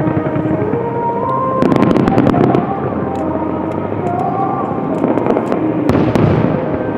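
Fireworks bursting and crackling, with a louder volley of rapid crackles about one and a half seconds in and another near the end.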